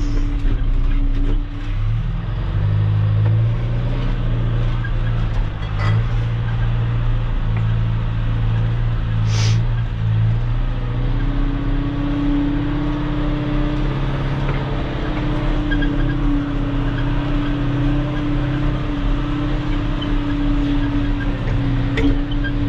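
Engine of a machine dragging gravel road base, running steadily under load with its pitch shifting. A brief high squeal sounds about nine seconds in, and a steady higher hum joins from about halfway through.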